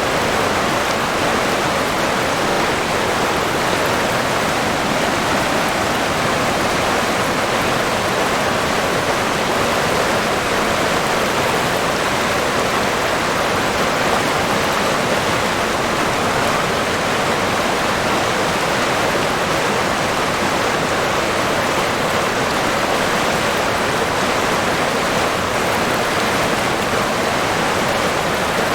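River water flowing steadily, a constant rushing noise without any change or break.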